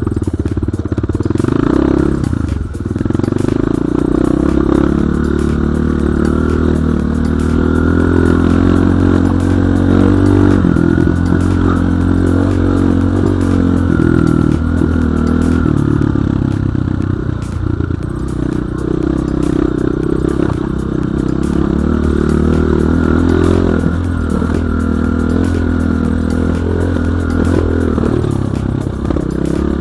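Dirt bike engine running under load while riding, its pitch rising and falling with the throttle.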